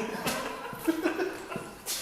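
Men's voices chuckling and muttering in a small room; no steady engine sound stands out.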